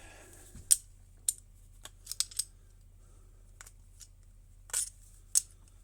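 Small metal carburettor parts and hand tools clicking and tapping as they are handled on a workbench: about ten short, sharp clicks at irregular spacing, a few bunched together just after two seconds in.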